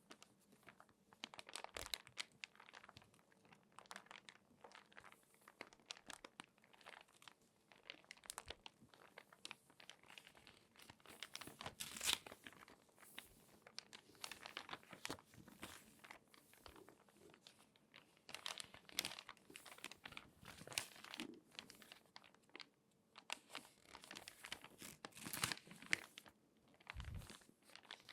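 Crinkly magazine pages being folded and creased by hand: irregular, soft crinkling and crackling of paper that comes and goes in clusters, with a few louder crackles.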